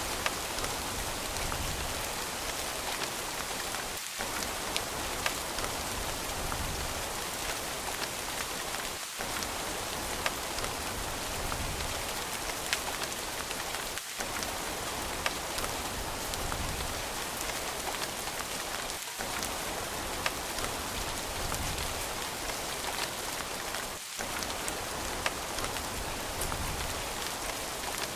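Steady rain falling on a surface: a dense hiss with many sharp individual drops ticking through it. The low rumble dips briefly about every five seconds.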